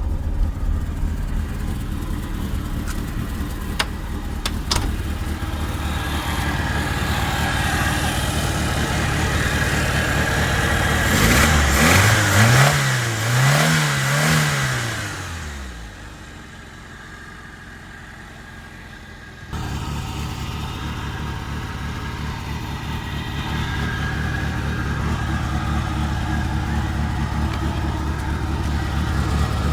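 Fiat Cinquecento 1.1 four-cylinder petrol engine idling, then revved three times in quick succession about halfway through. It then drops away to a few seconds of quiet and is idling steadily again.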